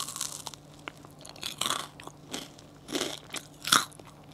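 Crunchy bites and chewing of an orangcaron, a crisp puffed-rice oranda sandwich filled with milk macaron cream, close to the microphone. It is an irregular string of crisp crunches, the loudest near the end.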